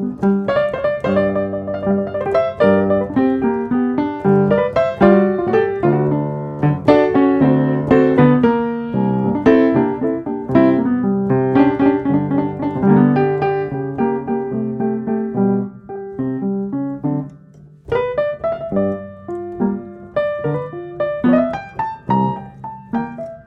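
Solo piano music: a calm piece played with many quick notes over sustained bass, easing briefly about two-thirds through before the notes pick up again.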